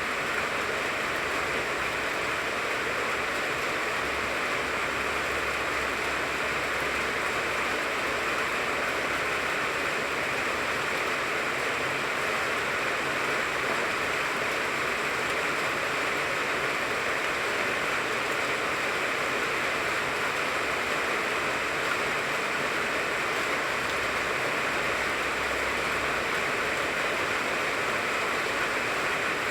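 Steady rain falling on the leaves of a tangerine tree, an even, unbroken hiss.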